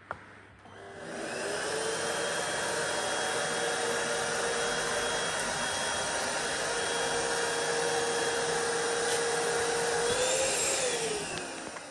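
Vacuum cleaner switched on with a click, its motor spinning up to a steady whining run. Near the end its pitch rises briefly, then falls as it winds down.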